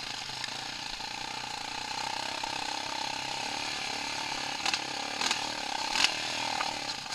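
A small engine running steadily, with a few sharp clicks or knocks in the second half.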